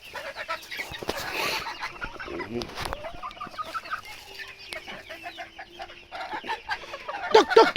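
A flock of bantam chickens clucking and peeping around the feeder. Near the end a loud, rapid run of repeated calls starts, about four a second.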